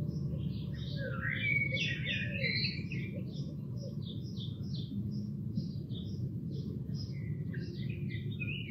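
Songbirds singing: a busy tangle of chirps in the first few seconds, then a run of short repeated notes at about three a second, with more tangled song near the end, over a steady low rumble.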